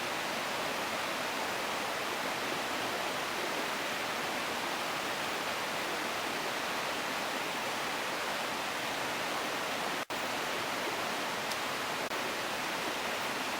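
Steady rushing noise of running water, even and unbroken apart from a brief dropout about ten seconds in.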